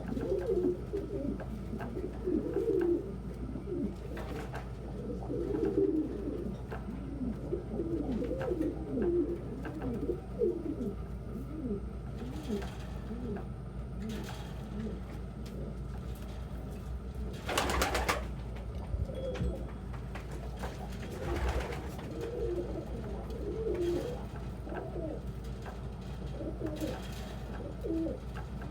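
Domestic pigeons cooing, many low coos overlapping one after another, over a steady low hum. Two brief rustling bursts break in about two-thirds of the way through.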